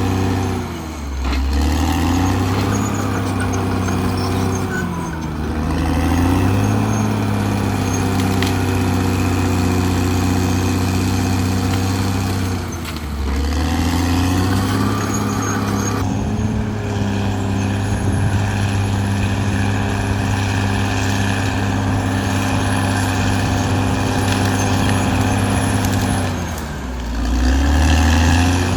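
Caterpillar D6R XL bulldozer's diesel engine running under load. Its note sags briefly and recovers four times.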